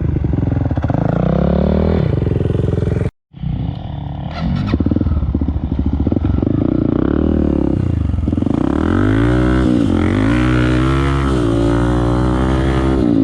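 Off-road motorcycle engine running hard, its revs rising and falling again and again, with a brief total gap about three seconds in.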